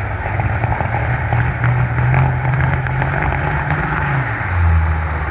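Diesel semi-truck engine at full throttle racing down a drag strip. Its low drone rises slowly in pitch, then drops lower and gets louder about four seconds in.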